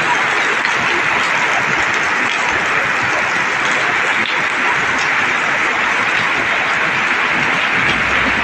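Heavy rain falling steadily: a dense, even hiss of rain with no letup.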